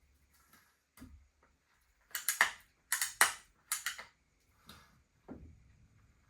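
Ratcheting clicks in three quick runs of about half a second each, as tension is worked into the cable hanger at a spring balancer. A faint single click comes before them and a soft knock after.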